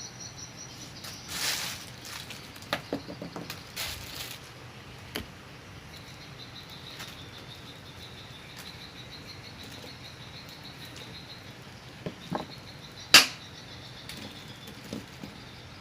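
Intermittent rustling swishes and small knocks, with one sharp click about thirteen seconds in. A faint high pulsing chirp runs underneath.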